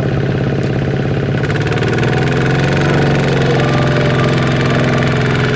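Small Kubota mini tractor engine running steadily. About a second and a half in its note shifts and it grows slightly louder.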